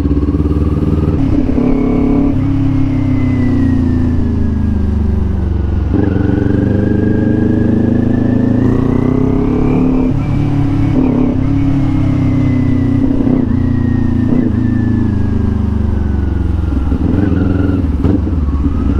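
Kawasaki Ninja 400 parallel-twin engine running under way. Its pitch climbs and then drops back abruptly, about six and eleven seconds in.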